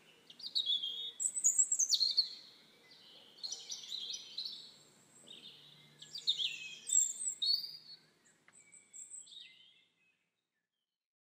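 Songbirds singing: several bursts of quick, high chirps and trills a second or two apart.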